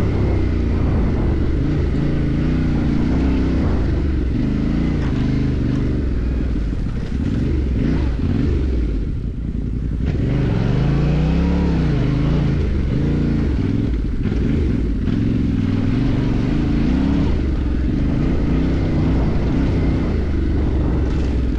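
Motorcycle engine running under way off-road, its pitch rising and falling with the throttle. It eases off briefly about nine seconds in, then picks up again.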